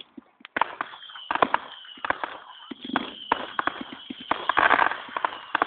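Fireworks crackling: a rapid, irregular string of sharp pops, with a thin steady high whistle underneath and a louder hissing burst about four and a half seconds in.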